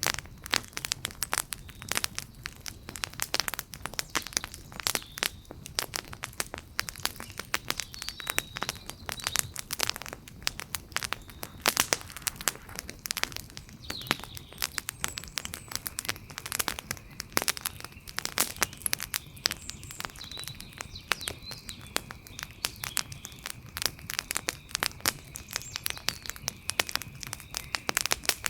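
Wood fire crackling, with a dense, irregular stream of sharp pops and snaps from the burning wood, some louder than the rest.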